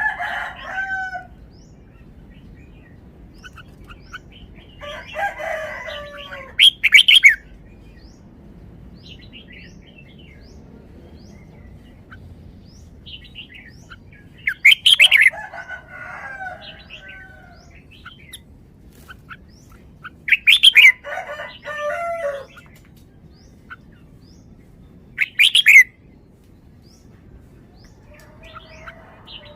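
Red-whiskered bulbul singing in short warbled phrases, five of them a few seconds apart. Each phrase has a loud, sharp, high note.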